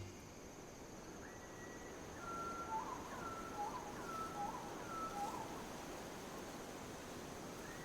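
A songbird calling, repeating the same short two-note phrase four times in a row, a flat whistle followed by a quick up-and-down chirp, over steady faint outdoor background noise.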